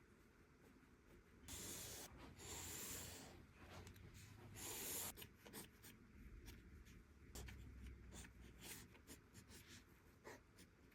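Faint scratching of a drawing tool on paper: a few longer strokes, then many quick short strokes in the last few seconds.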